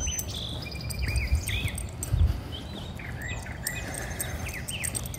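Birds chirping: many short, repeated, curved call notes, with low thumps underneath.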